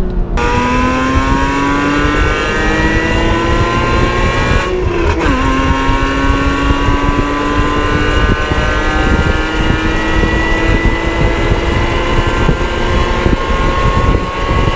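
Porsche Cayman's 2.7-litre naturally aspirated flat-six, fitted with Fabspeed headers and K&N air filters, under hard acceleration. The engine note rises through the revs, and an upshift about five seconds in drops the pitch. It then climbs again more slowly in the next gear.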